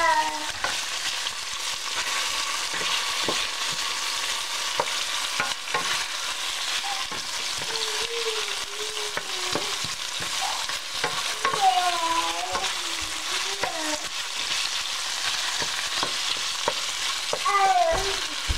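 Beef strips, sliced red onion and garlic sizzling in hot oil in a stainless steel frying pan, stirred with a wooden spatula that scrapes and knocks against the pan many times over a steady hiss.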